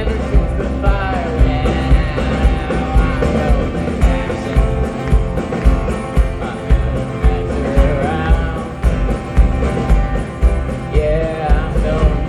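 Live country-rock band playing: drums with a steady, heavy kick-drum beat, bass and electric guitar, with a singer's voice carrying the melody.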